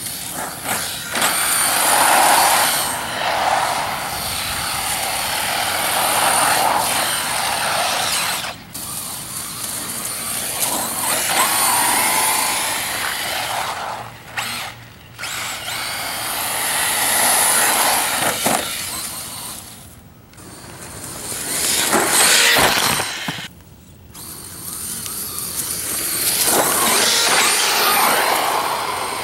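1/10-scale radio-controlled 4WD short course truck being driven hard over dirt: a high motor and gear whine mixed with the noise of tyres on the ground. It surges and drops out several times as the throttle is let off and opened again.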